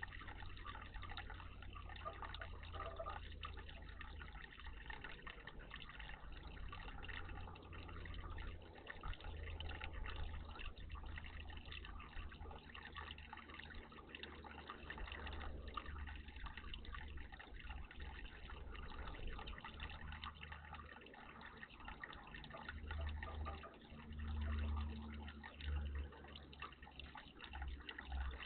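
Water trickling and splashing steadily in a garden bird bath, with a low rumble that swells near the end.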